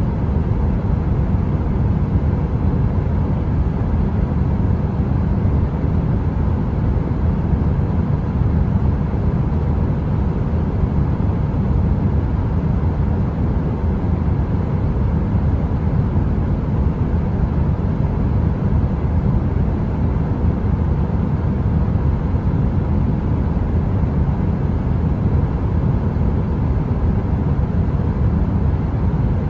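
Steady, deep rushing noise from a heater, heaviest in the low end, with a faint steady hum on top. It runs unchanged throughout, with no crackling.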